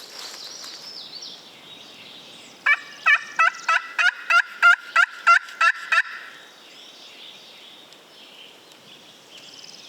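Turkey call run through a yelping sequence imitating a hen: about eleven loud, evenly spaced yelps, starting nearly three seconds in and lasting about three seconds.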